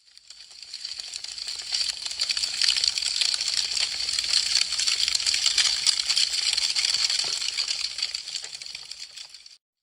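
Wood fire crackling, a dense run of sharp pops and snaps. It swells up from silence at the start and fades back out to silence just before the end.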